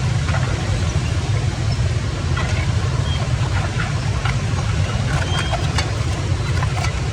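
Steady low rumble of water rushing into a cleared drain, with a few small splashes.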